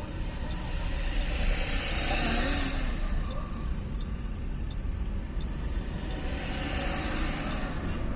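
Road traffic: a steady low rumble with vehicles passing, swelling about two seconds in and again near seven seconds.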